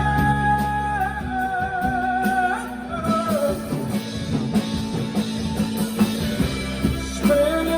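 Indie rock band playing live, with guitar, bass and drums. A long, wavering held note sounds over the band and ends about two and a half seconds in, after which the band plays on under a steady drum beat.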